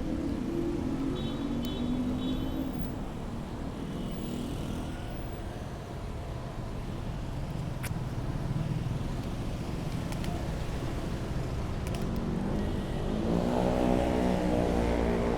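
Road traffic: motor vehicle engines running with a steady rumble of traffic. Near the end a vehicle engine pulls away, rising in pitch.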